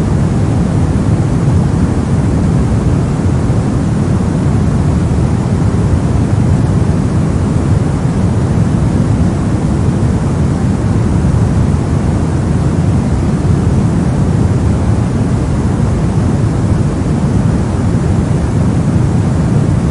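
Steady, even soft noise for sleep or study, deep and rumbling, with most of its weight in the low end and little hiss, and no change in it at all.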